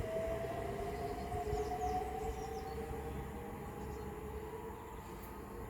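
Class 387 Electrostar electric multiple units pulling away from a station, their traction motors giving a whine that rises slowly in pitch as they accelerate, over a low rumble that fades gradually.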